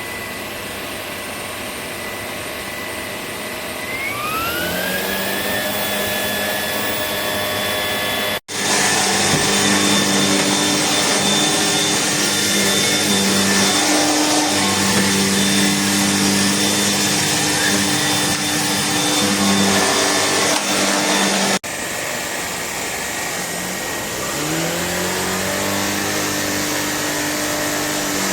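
Shark PowerDetect cordless vacuum running with a steady motor whine. The whine climbs in pitch about four seconds in as the motor speeds up. A louder stretch starts and stops abruptly, about eight and twenty-one seconds in, and the pitch climbs again near the end.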